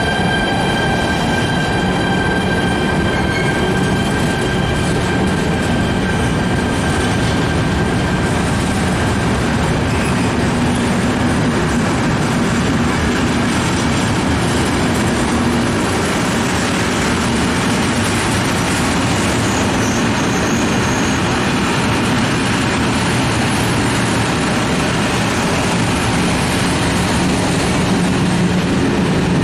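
Freight train of covered sliding-wall wagons rolling steadily past, its wheels running over the rails. A high wheel squeal rings through the first several seconds and then fades out.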